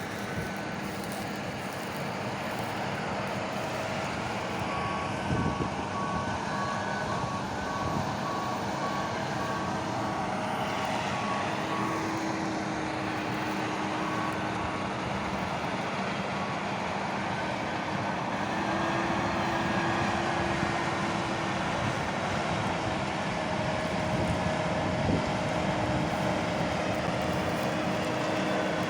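Heavy farm machinery's engine running steadily, with a warning alarm beeping in an even series for a stretch in the first half. A single knock sounds about five seconds in.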